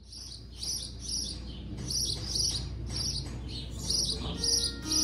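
A small bird chirping in a steady series of short, high notes, about two to three a second, over a low, steady background rumble. Music with pitched notes comes in near the end.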